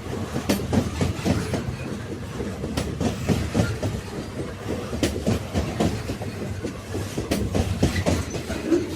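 Railroad cars rolling along the track: a steady rumble from the wheels on the rails, with frequent irregular clacks and knocks as they pass over rail joints.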